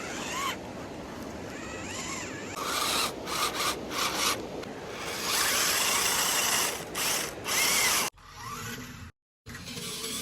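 RC 4x4 cars' motors and gears whining in bursts, the pitch rising and falling with the throttle. About eight seconds in it cuts off sharply, drops out for a moment, then comes back quieter.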